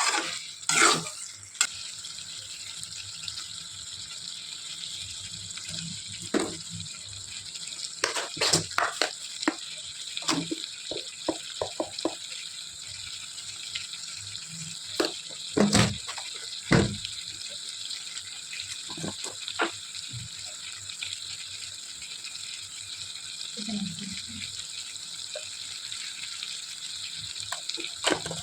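A steady kitchen hiss, from a frying pan or running water, with scattered clinks and knocks of pans and utensils, busiest about eight seconds in and again around sixteen seconds.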